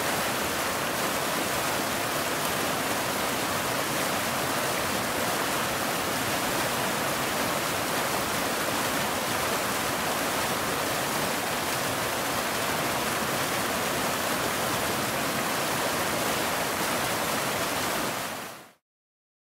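Waterfall: a steady, even rush of falling water with no other sounds. It fades out quickly to silence near the end.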